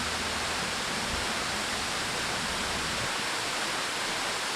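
Munising Falls, a waterfall, with a steady rushing of falling water.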